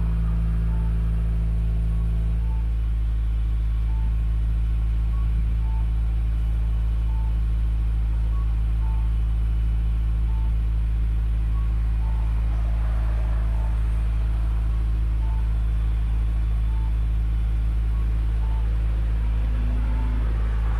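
Car idling through an EXAS EVO Tune aftermarket muffler: a steady, deep low exhaust drone as the engine warms up after a cold morning start.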